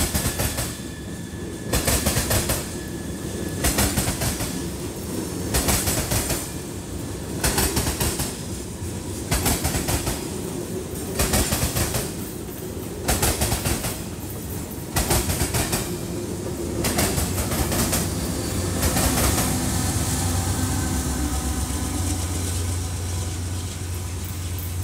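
Freight train of tank cars rolling past, its wheels clattering over the track in a regular burst about every two seconds. In the last several seconds this gives way to a steadier rumble as the end of the train goes by.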